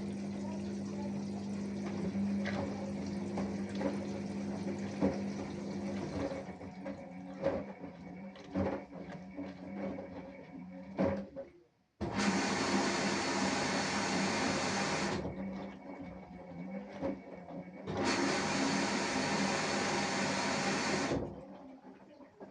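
Samsung Eco Bubble washing machine mid-cycle: a steady pump-like hum for about six seconds, then scattered knocks and clicks as the drum works, then two bursts of rushing water of about three seconds each that start and stop sharply.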